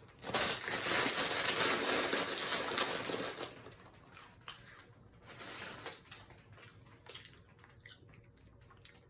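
Crinkling of a potato-chip bag, a dense rustle for about three seconds. A shorter rustle follows near the middle, then a few small crackles.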